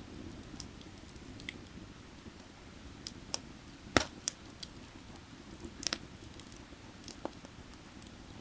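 Burning firewood crackling, with irregular sharp pops and snaps, the loudest about four seconds in. Under it runs the low steady rush of a nearby creek.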